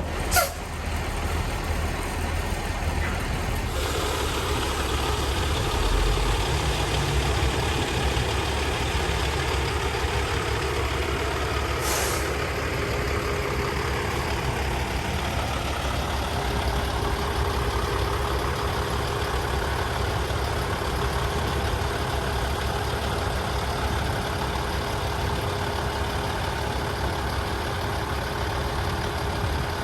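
Heavy diesel truck engine running steadily, with a short hiss of air about twelve seconds in.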